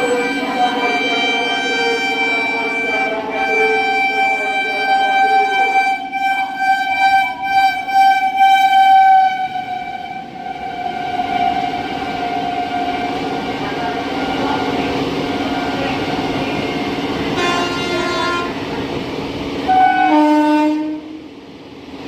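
Indian Railways train horn sounding one long blast for about ten seconds over the rumble and clatter of a passing train. After that the train keeps running, and two short horn blasts sound near the end.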